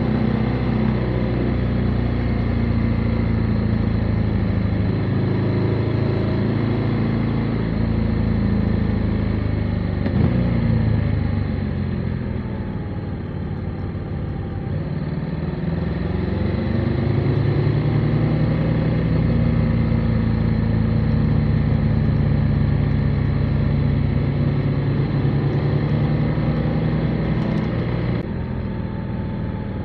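Motorcycle engine running under way, its note falling as the bike slows about a third of the way through, then rising again as it pulls away. It runs steadily at speed before dropping back near the end.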